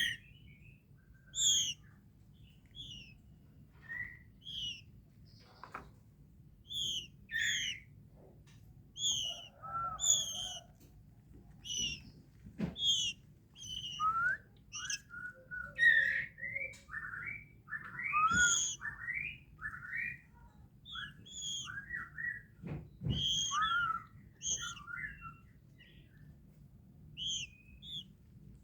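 Young white-rumped shama calling with short chirps and whistled notes in irregular bursts, some notes slurring downward, with a few brief low knocks in between.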